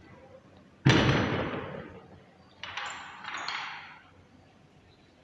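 A loud bang that rings and dies away over about a second, followed about two seconds later by two lighter knocking clatters.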